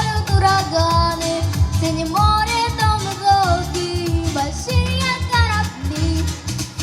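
A girl singing a song in Russian, holding long notes that slide between pitches, over a backing track with a steady bass beat.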